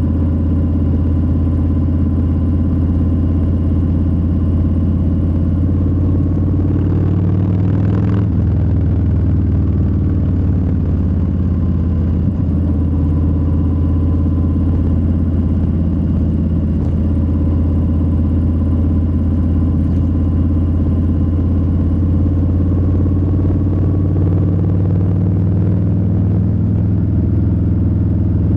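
Harley-Davidson Low Rider S's Milwaukee-Eight 117 V-twin running steadily while cruising, its deep exhaust note holding an even pitch. About seven to eight seconds in, a brief whoosh swells and fades over it.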